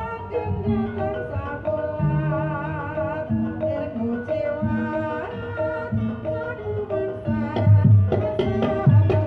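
Javanese gamelan music for a kuda kepang dance: kendang hand-drum strokes beat under a wavering melody line. The drums grow louder near the end.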